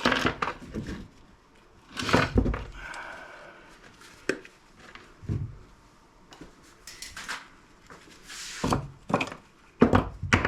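Hard scrap pieces knocking and clattering as they are handled and sorted through by hand, in irregular knocks with a brief scrape or squeak about three seconds in.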